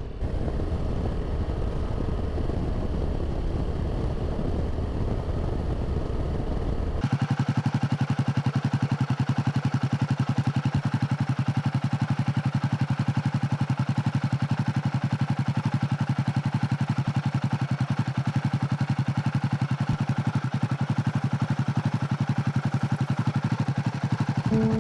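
Royal Enfield Himalayan 450's single-cylinder engine running on the move, first under a low wind rumble, then about seven seconds in switching abruptly to a louder, steady engine drone with a fast even pulse.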